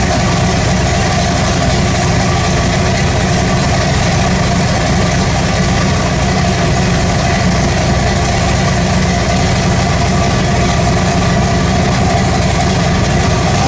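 Twin-turbo big-block Chevrolet V8 on an engine run stand, idling steadily and loudly just after being started on a weak battery.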